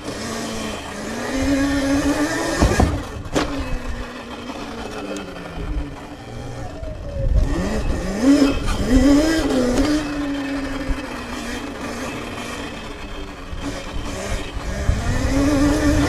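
Sur-Ron electric dirt bike's motor whining, rising and falling in pitch with the throttle in several bursts, over a low wind rumble on the microphone. A couple of sharp knocks come about three seconds in.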